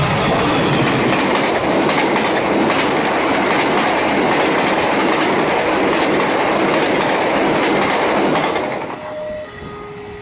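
A train passing close by a level crossing: a loud, steady rumble of wheels on rail with clickety-clack over the rail joints. It fades about nine seconds in, and the crossing's two-tone warning alarm is heard again, alternating between a higher and a lower tone.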